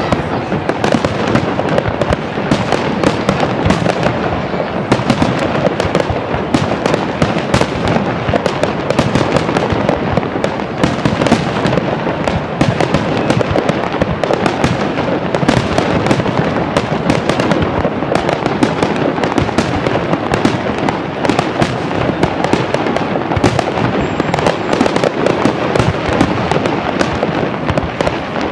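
Fireworks display: a dense, continuous barrage of shell bursts and crackling, many reports a second with no let-up.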